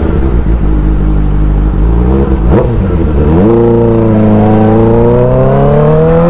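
Suzuki GSX-R600 inline-four motorcycle engine under way. It runs steadily, the pitch dips and breaks about two and a half to three seconds in as a gear change, then the revs climb steadily as the bike accelerates.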